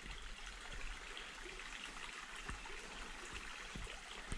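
A river running steadily over rocks in a gorge, with a few faint knocks.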